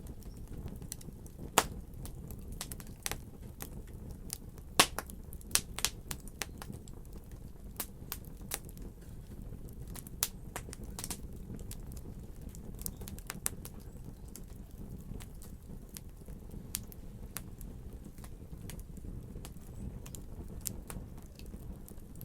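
Wood fire crackling: irregular sharp pops and snaps over a steady low rumble, with two loud pops in the first five seconds and a denser run of crackles after that.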